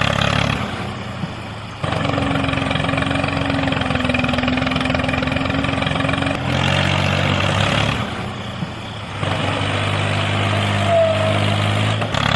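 A small engine running steadily, its sound changing abruptly several times between edited shots.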